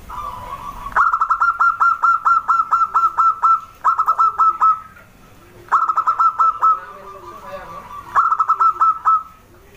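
Zebra dove (perkutut) calling in quick staccato runs of repeated notes, about four to five a second. There is one long run of about a dozen notes, then three shorter runs of about five notes each, with softer low cooing between them.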